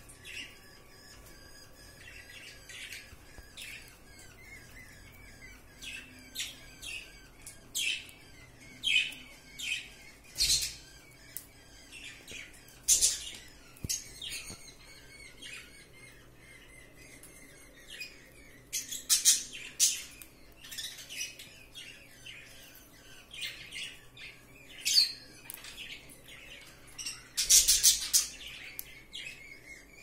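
Pet birds chirping and squawking in short, scattered high-pitched calls, with a quick run of calls near the end.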